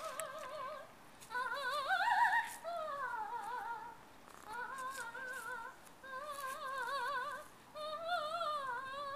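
A high female voice singing wordless, opera-style held notes with a wide vibrato, in about six phrases separated by short breaths; one phrase near the start swoops upward and back down.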